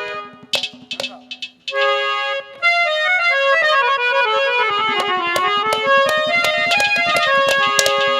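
Harmonium playing a melodic interlude of held and stepping notes that comes in fully about two seconds in, with a falling run in the middle and occasional sharp drum strikes.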